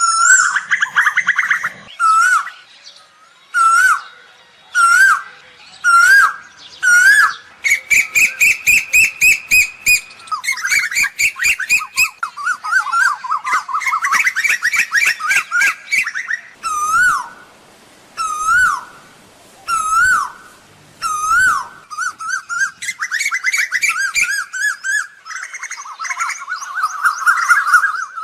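Asian koel calling: loud short rising calls repeated about once a second, alternating with fast runs of many quick notes.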